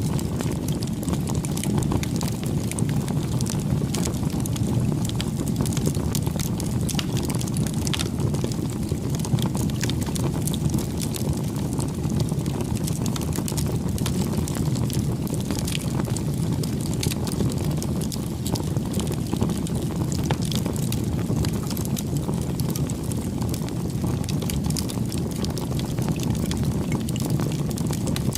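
Bonfire burning: a steady low rumble of flames with frequent sharp crackles and pops from the burning wood.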